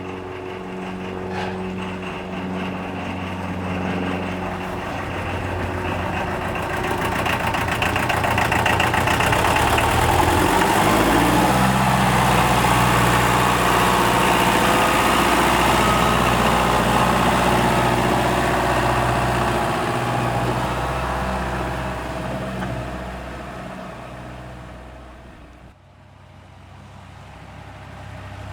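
Esslingen DZ 10 tractor's Mercedes-Benz OM 636 four-cylinder diesel running. It grows louder over the first ten seconds and drops in pitch about eleven seconds in, then fades away.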